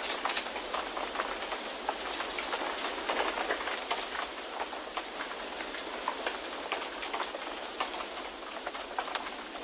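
Steady white-noise ambience, a continuous rushing hiss dotted with dense, irregular light pattering ticks.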